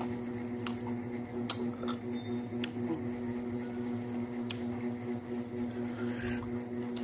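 Close-up chewing of unripe mango slices, with wet mouth smacks and a few sharp clicks, and a short louder rustle about six seconds in. A steady hum runs underneath.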